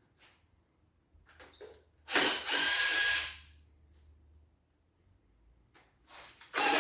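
Cordless power tool spinning out engine bolts on a 5.9 Magnum V8, in two steady whirring runs: one of about a second, two seconds in, and another starting near the end, with a few light clicks between.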